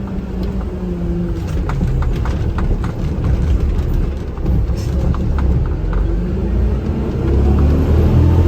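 Heavy truck's engine running with a low rumble while driving, with scattered faint clicks and rattles; it gets louder near the end.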